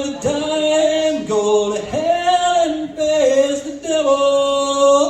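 Man singing a country song live, holding long drawn-out notes with little or no guitar under them. The last held note stops abruptly.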